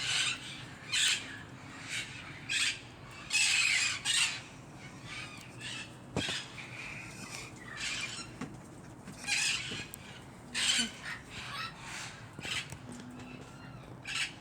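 Green parrots squawking: a steady run of short, harsh calls, about one every second.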